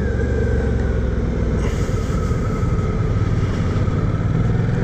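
Motorcycle engine running steadily at cruising speed, with wind noise from riding that swells briefly about two seconds in.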